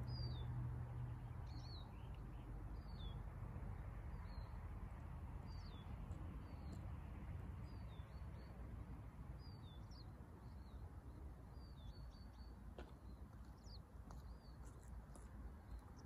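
A small songbird chirping over and over, short high hooked notes about once a second, over a low steady background rush.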